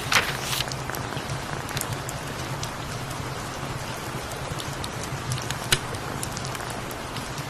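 Steady rain falling, with a low steady hum underneath and a few sharp clicks or crackles; the loudest comes just after the start and another about six seconds in.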